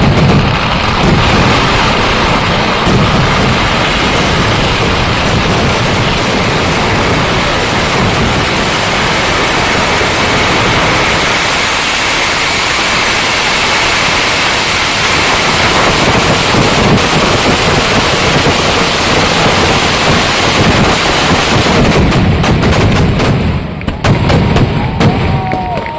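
Fireworks going off in a dense, continuous barrage, the bangs so rapid that they merge into one unbroken noise, thinning into separate sharp cracks near the end.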